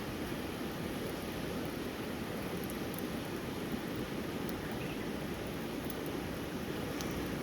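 Steady rushing of water, with a few faint ticks.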